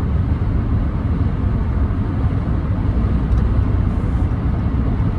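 Steady low rumble of road and wind noise heard inside the cab of a 2014 Ram 1500 pickup cruising at highway speed.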